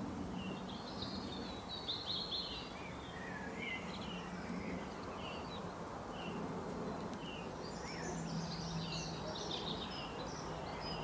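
Songbirds chirping and singing: short repeated chirps with two denser bursts of song, one about a second in and one about eight seconds in, over a steady background hiss and a faint low hum.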